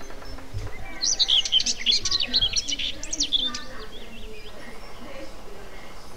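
Songbird singing outdoors: a rapid run of varied, sweeping high chirps starting about a second in and lasting a couple of seconds, then trailing off into a few fainter notes.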